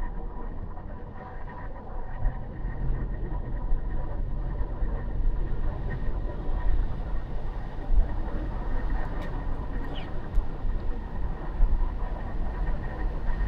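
A car being driven through city streets: a steady, low road-and-engine rumble, with a few faint clicks about nine to ten seconds in.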